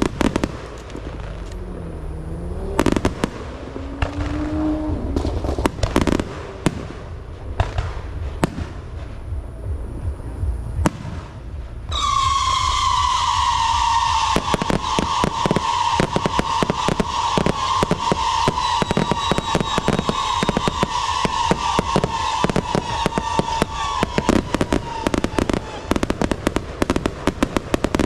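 Fireworks going off: scattered bangs at first, then about twelve seconds in a dense barrage of rapid bangs starts together with a loud, steady whistle that slowly drops in pitch and fades near the end, while the rapid bangs carry on.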